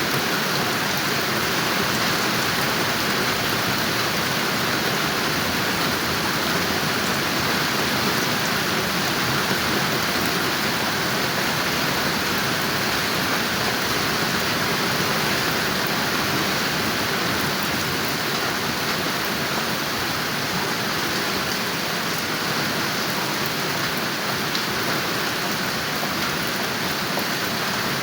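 Steady rain falling, a continuous even hiss with faint patter of drops.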